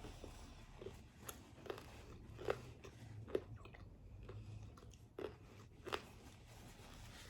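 A person chewing pizza close to the microphone, with about six short, crisp crunches of the crust spread through the chewing.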